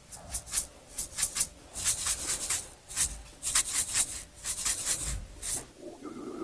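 Close-miked eating sounds: a person chewing a mouthful of rice and salted pollock roe, a quick irregular run of wet mouth clicks and smacks that stops shortly before the end.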